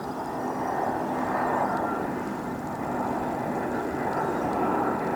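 Jet airliner's engines passing: a steady rushing noise with a few faint whining tones, rising a little in the first second or so.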